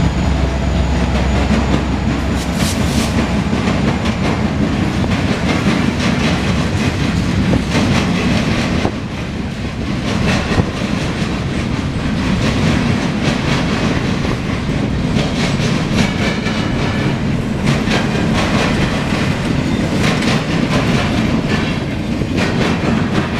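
CSX freight train passing close by: the diesel locomotive's low rumble in the first couple of seconds, then freight cars rolling past with their wheels clacking steadily over the rail joints.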